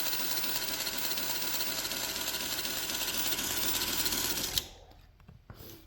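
Home-built knife-sharpening belt grinder running steadily, its motor and belt giving a steady whine. It cuts off suddenly about four and a half seconds in.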